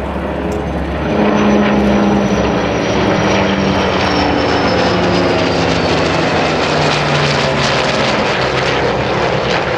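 A formation of Navy warbirds passing overhead: the drone of the Skyraider's and Corsair's radial piston engines mixed with the A-4 Skyhawk's turbojet whine. The whine slowly falls in pitch, and the sound grows louder about a second in.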